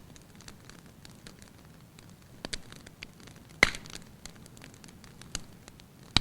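Wood fire crackling in a hearth: a low steady hiss with scattered sharp pops, the loudest about three and a half seconds in.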